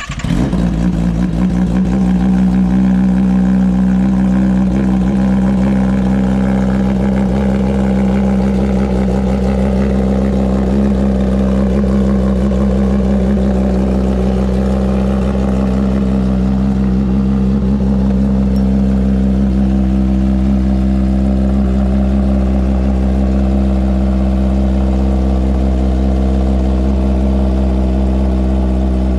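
Kawasaki ZX-10R's inline-four engine with an SC-Project exhaust firing up, then idling steadily and loudly.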